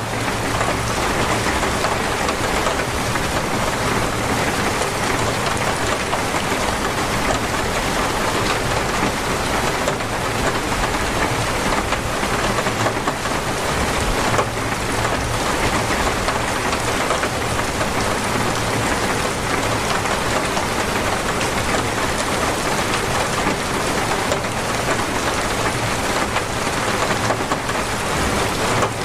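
Torrential rain pouring steadily, a dense, even hiss of drops with no let-up.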